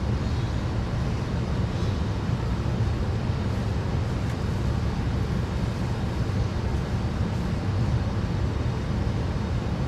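Steady low rumble and rush of air-moving machinery, the HVAC system's blower running, unchanging throughout.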